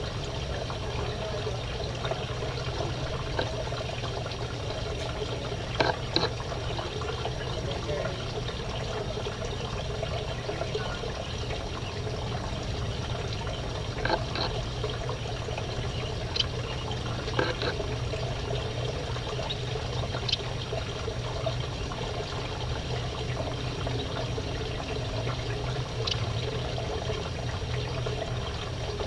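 A steady, water-like rushing noise with a low hum under it. A handful of short, high chirps from aviary finches come through now and then.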